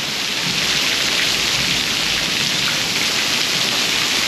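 Heavy rain pouring down and splashing on hard surfaces in a downpour, a steady dense hiss.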